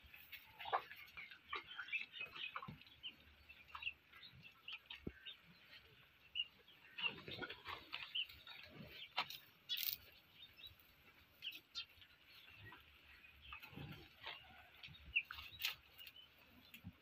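Small birds chirping in many short, scattered calls, with occasional light knocks.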